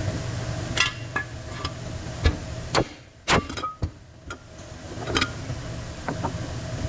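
Hand tools knocking and clinking on metal in a series of separate sharp strikes, over a steady low hum that drops out for about a second and a half near the middle.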